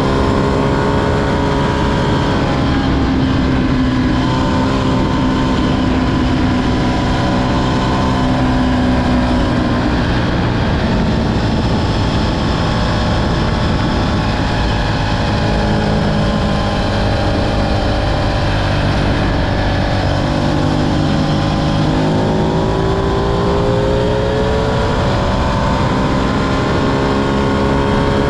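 Ducati Streetfighter V2's twin-cylinder engine under way. The revs ease down over the first ten seconds or so, hold lower, then climb again over the last several seconds.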